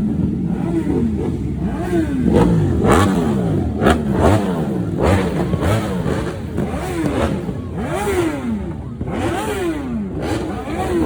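Vehicle engines revving over and over, their pitch rising and falling about once a second, with a sharp crack about four seconds in.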